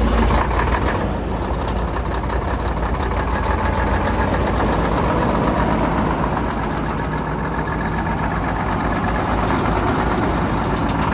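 A truck's diesel engine idles steadily close up, just after being started once air was bled from its fuel system. A fast, even ticking comes in near the end.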